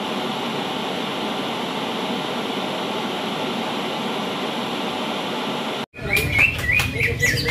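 A steady rushing hiss that cuts off abruptly, followed by several birds chirping and singing in quick repeated phrases, as in the recorded sound of a songbird contest.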